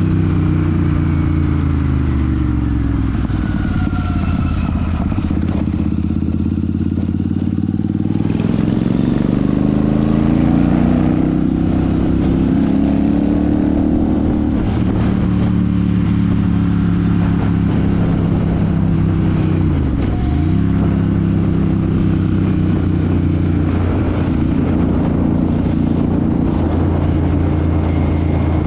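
Royal Enfield Super Meteor 650's 648 cc parallel-twin engine and exhaust under way. The revs fall over the first few seconds, climb again as it accelerates, and drop and recover quickly about two-thirds of the way in, as at a gear change, then hold steady at cruise.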